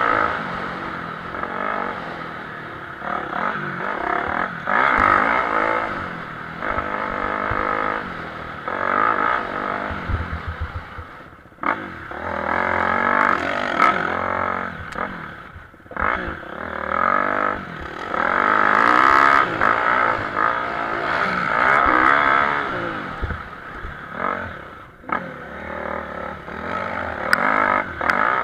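Motocross motorcycle engines revving hard and easing off over and over, the pitch rising and falling, with brief drops in loudness.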